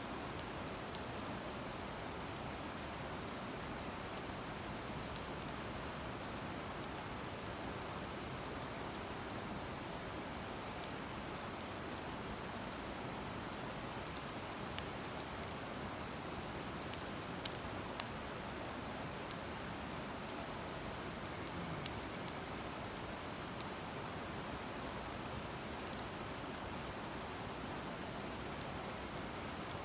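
Wood fire crackling, with scattered sharp pops, two of them louder about two-thirds of the way through, over a steady rushing hiss.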